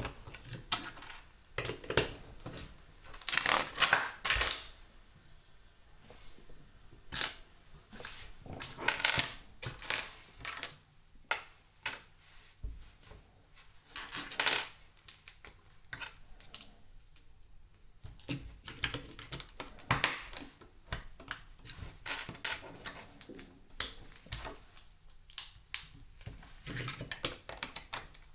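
LEGO bricks from the Creator 40602 Winter Market Stall set being handled and pressed together: irregular sharp plastic clicks and clatters, with several denser clusters of clattering.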